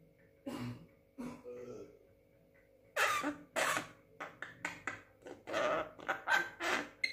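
Young Javan myna giving two short calls, then from about three seconds in a rapid string of short, noisy calls, several a second.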